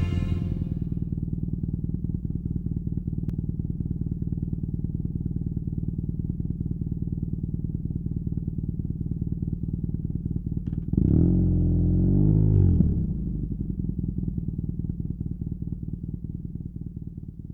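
BMW R nineT's air/oil-cooled boxer twin with a Competition Werkes slip-on exhaust idling with a steady low pulsing note, blipped a couple of times about eleven seconds in so the pitch rises and falls, then settling back to idle and fading near the end.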